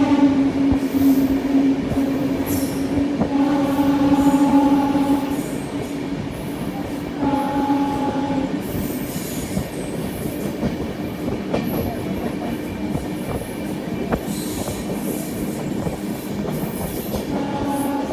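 Express train running at speed, with continuous rumble and clatter from the wheels on the track. A steady pitched tone sounds over it in several stretches: at the start, twice more in the first half, and briefly near the end.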